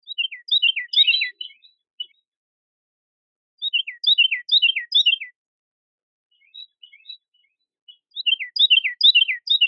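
A songbird singing: three phrases of quick, clear, down-slurred whistled notes, five or six to a phrase, repeated about every four seconds, with a few faint chips between them.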